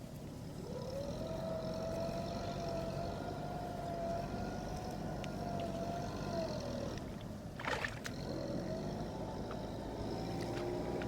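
Tractor engine running steadily under load; its pitch sags about seven seconds in, with a short sharp knock, then climbs back.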